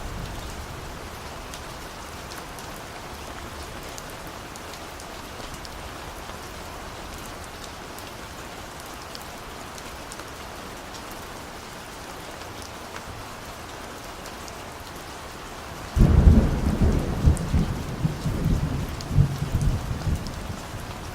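Steady rain falling, with scattered drop ticks. About three-quarters of the way through, a sudden loud, deep thunder rumble breaks in and keeps rolling to the end.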